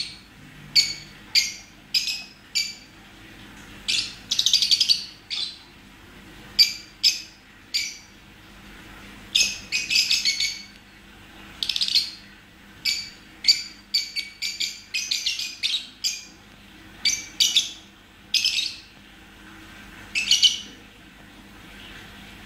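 Lovebird making short, high-pitched chirping calls again and again at an uneven pace, with a few quick chattering runs of calls.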